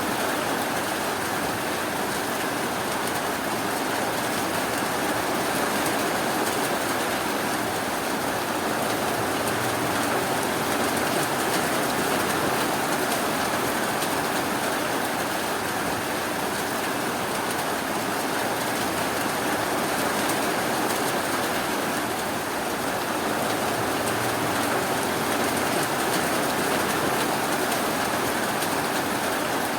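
Steady, continuous rainfall, an even rushing hiss with no single drops or thunder standing out.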